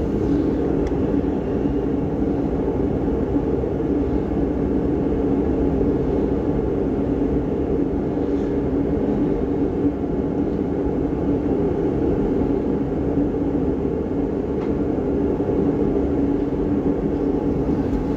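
A steady, unchanging low drone of background machinery or noise, with a few faint ticks.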